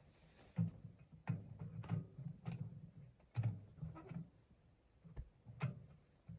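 A series of irregular knocks and clicks, about seven over several seconds, each a short dull thud.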